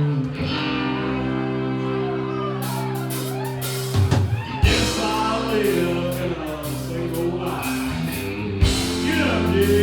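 Live band playing with electric guitar and singing over held chords; drums and cymbals come in about two and a half seconds in, with heavy hits a little later.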